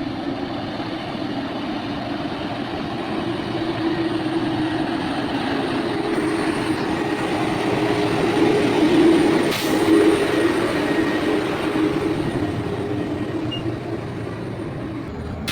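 Heavy mining dump truck running, a steady deep rumble that grows louder to a peak a little past halfway and then eases off, with one sharp click at the loudest point.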